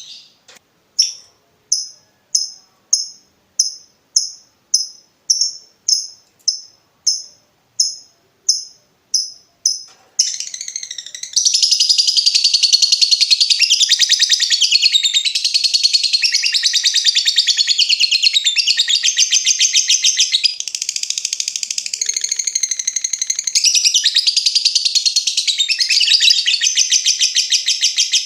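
Lovebird calling. For the first ten seconds it gives a string of short, sharp, evenly spaced ticking calls, about one and a half a second. About ten seconds in it breaks into a long, unbroken, rapid high-pitched chatter (ngekek) that keeps going.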